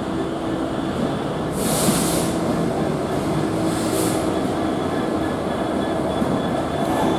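Diesel freight locomotive running with a steady engine rumble as the train moves. Two short hisses of air come about two and four seconds in, over a faint high wheel squeal.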